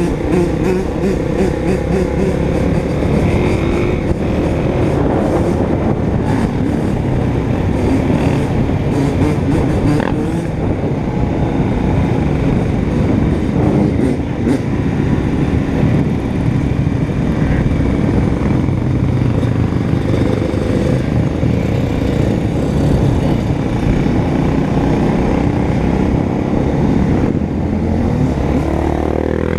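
Motorcycle engine running while riding, its pitch shifting with the throttle and climbing in a rev near the end.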